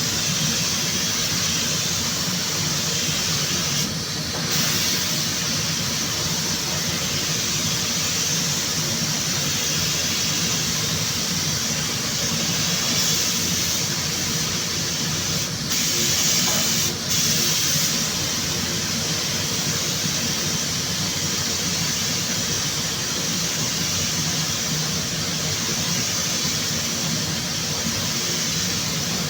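Steady hiss of compressed air from a paint spray gun, with a low hum underneath. The hiss breaks off briefly about four seconds in and twice more around the middle.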